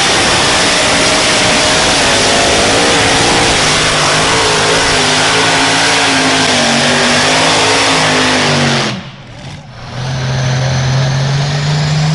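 Loud engine of a pulling vehicle running hard at high revs, its pitch wavering and then falling, before it cuts off suddenly about nine seconds in. About a second later an engine comes back in, its pitch rising slowly.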